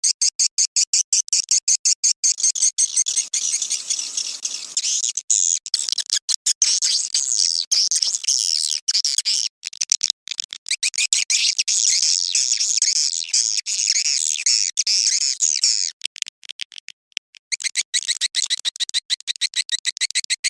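Swiftlet lure call: rapid, evenly repeated clicks mixed with high chittering twitters, denser in the middle and briefly breaking up near the end before the clicking resumes. It is the dusk mating call ('birahi') played to draw swiftlets in.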